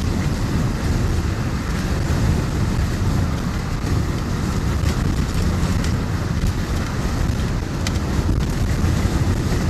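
Steady wind and road noise inside a moving tow truck's cab, coming in through an open driver's window whose broken switch won't close it.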